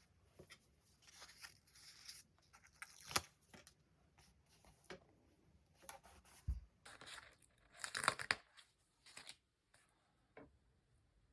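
Paper and stickers being handled for diary decorating: scattered light taps and rustles, with a longer tearing rustle of paper or sticker sheet about seven to eight and a half seconds in.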